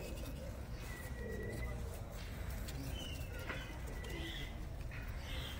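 Faint bird calls: a few short thin whistles and chirps over a steady low outdoor rumble.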